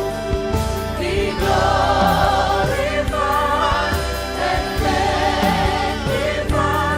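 Live church worship music: voices singing a sustained, wavering melody over a band with low bass notes and a steady beat.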